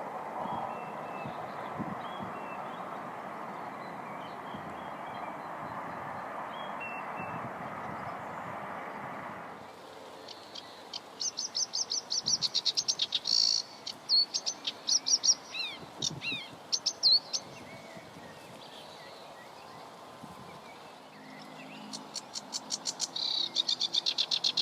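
A songbird singing rapid high trills and chirps in two bouts, after a steady rushing noise that stops abruptly about ten seconds in.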